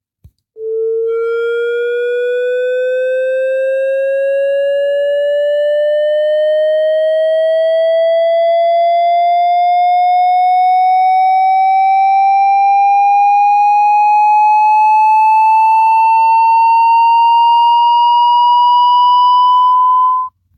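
A loud electronic tone gliding slowly and steadily upward in pitch for about twenty seconds, then cutting off suddenly.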